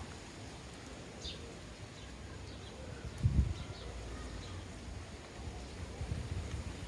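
Sparrows giving a few short, high chirps at the feeders, scattered through the first few seconds. A short low rumble about three seconds in is the loudest sound, with more low rumbles near the end.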